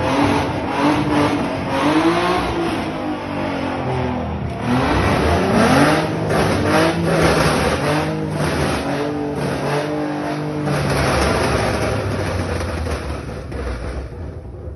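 Tuned 3.7-litre V6 Ford Mustang engine revving hard, its pitch climbing and dropping several times over, then fading away near the end.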